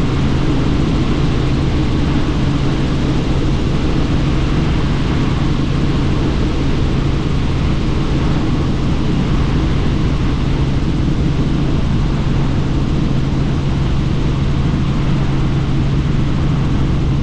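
Helicopter in flight heard from aboard with the doors off: a steady drone of rotor and engine with a constant low hum under a wide rush of wind.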